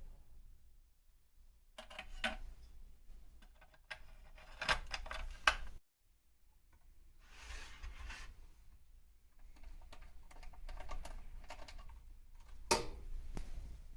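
Irregular clicks and knocks of small metal parts and tools being handled on a workbench, in clusters, with a sharper knock near the end.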